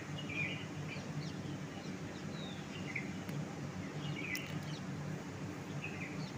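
Several birds chirping in short calls, some falling in pitch, about one every second, over a steady low hum.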